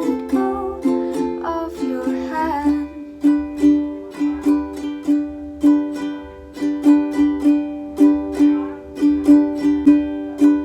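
Ukulele strummed in a steady rhythm of chords. For the first two and a half seconds a voice sings a held, wavering note over it, then the ukulele carries on alone.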